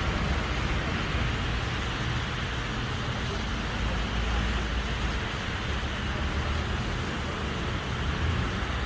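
Steady rain noise with a low rumble of road traffic underneath.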